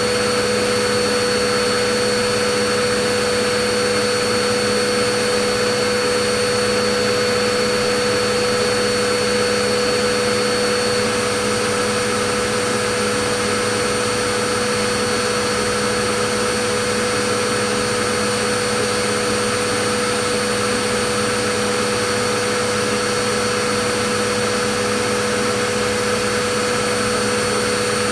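Vacuum cleaner running steadily: a dense, unchanging rush of air with a steady motor whine on top.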